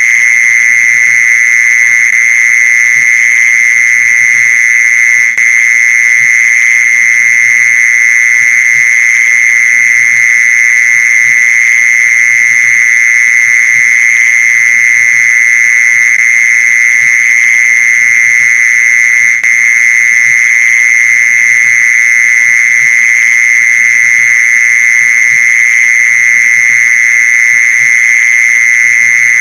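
Mole cricket calling song: a loud, continuous high-pitched trill held steady without a break, as used to lure mole crickets.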